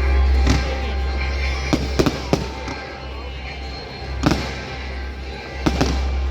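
Fireworks exploding at a display: a string of sharp bangs, a pair close together about two seconds in, more near four seconds and again near six.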